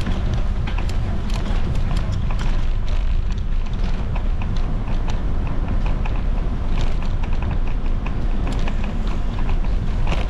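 Wind buffeting a bike-mounted action camera's microphone while riding, a steady low rumble, with frequent sharp clicks and knocks from the bicycle rattling as it rolls.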